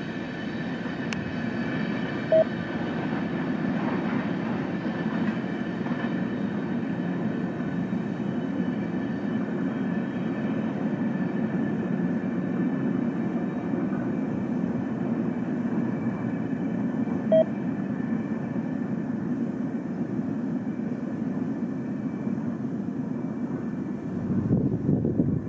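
Diesel locomotive running, a steady low rumble, with two short beeps about two seconds in and again about seventeen seconds in.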